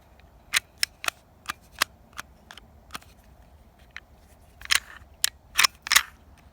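A Glock 17 pistol being handled while it is being taken apart: a series of short, sharp clicks at irregular spacing as the slide and parts are worked, with a louder cluster near the end.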